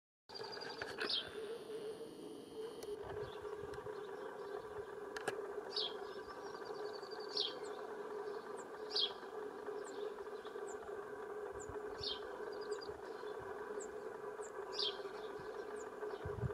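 A bird repeating a short, high, falling chirp every one to three seconds over a steady low hum in open country.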